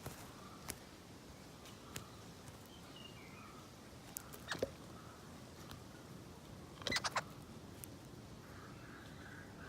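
Faint, short bird chirps in the background, broken by a few sharp clicks, including a quick cluster of three about seven seconds in.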